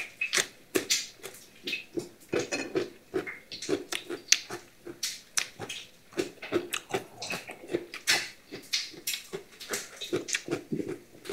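Close-up chewing of raw cucumber and white radish: irregular wet crunches and mouth smacks, several a second.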